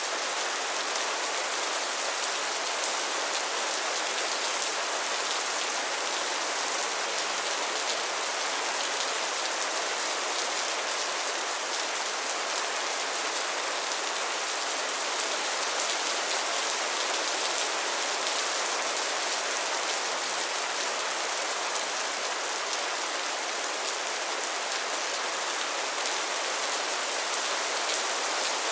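Steady rain falling, a constant even hiss with fine patter of drops.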